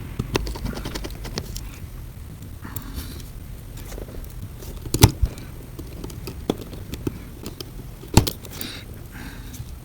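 Small screws being driven back into a phone's frame with a precision screwdriver: scattered light clicks and taps of tools and parts on the phone, with two louder knocks about five and eight seconds in.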